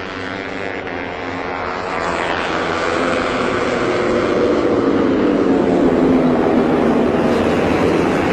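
Racing motorcycle engine running hard on track. Its high note slides down in pitch and climbs again near the end, growing louder through the last few seconds.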